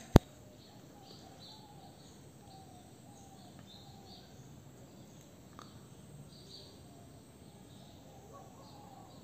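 One sharp click just after the start, then faint, scattered bird chirps over a low background hiss.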